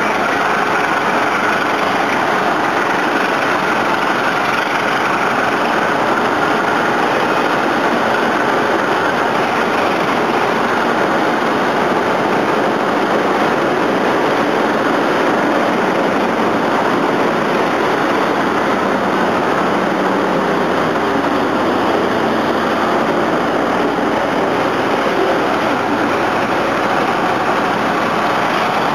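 Lodaya diesel-hauled passenger train departing the station: a loud, steady running noise that holds even throughout, without breaks or sharp knocks.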